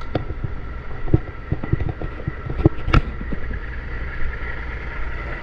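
Truck engine idling steadily, with several sharp knocks over it, the loudest about three seconds in.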